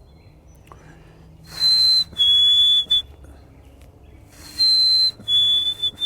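Black-capped chickadee singing its two-note whistled fee-bee song twice: a clear higher note, then a slightly lower one. A rush of hiss comes with each phrase.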